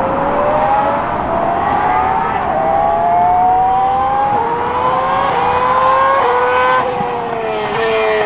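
Ferrari F2008 Formula One car's V8 accelerating up through the gears, its pitch climbing and then dropping at each quick upshift. Near the end the note falls away as it downshifts.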